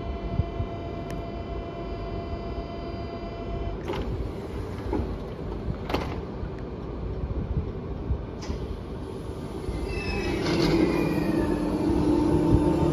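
Train running through the station: a steady whine of several tones that stops about four seconds in, a few sharp clicks, then a rumble and whine growing louder as a train comes near toward the end.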